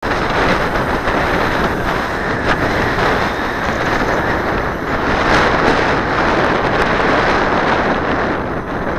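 Strong wind buffeting the microphone: a loud, dense, steady rush of noise with no clear engine or motor tone.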